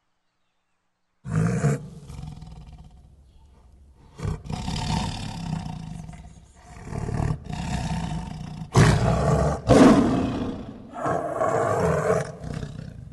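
Big cat roaring: a series of about six loud roars starting about a second in, the strongest near the end.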